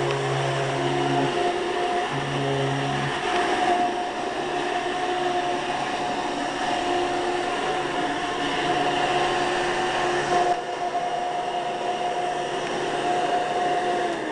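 Hoover commercial upright vacuum cleaner with a direct-air fan running steadily with a high motor whine. Right at the end the whine begins to fall in pitch as the motor winds down.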